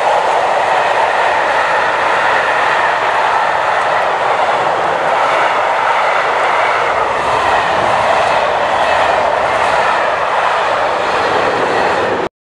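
Train passing close by: a loud, steady rushing noise of wheels on rails that cuts off abruptly near the end.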